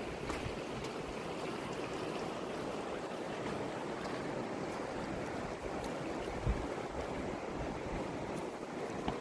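Fast river water rushing steadily, with a few short low thumps, the strongest about six and a half seconds in.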